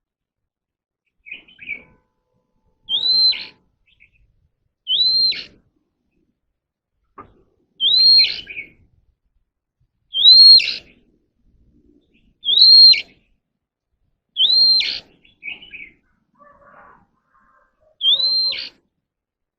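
Oriental magpie-robin singing the same short phrase over and over, about every two seconds: a clear rising whistle that turns over into a quick downward sweep, seven times in all, with a few shorter chirps between.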